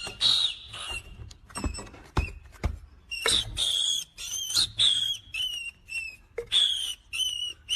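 A rapid series of short, high-pitched chirping calls from a small animal, with a few sharp knocks in between.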